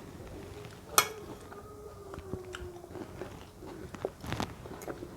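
Close-up chewing and mouth sounds of a person eating matoke (plantain porridge), with a sharp click about a second in.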